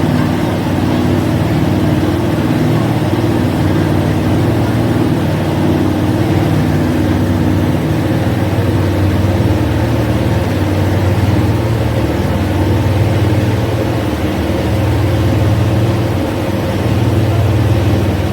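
River bus engines running steadily: a loud low droning hum with a rushing noise over it.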